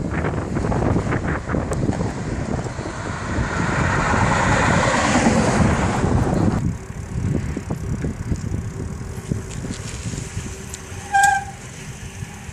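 Wind rushing over the microphone during a bicycle ride, with road traffic, loud at first and dropping off sharply about two-thirds of the way through. A short horn toot sounds near the end.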